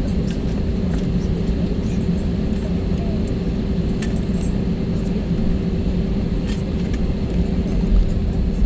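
Jet airliner cabin noise: a steady low rumble of the engines and airframe with a constant hum, and a few light clinks and rattles from cabin fittings now and then.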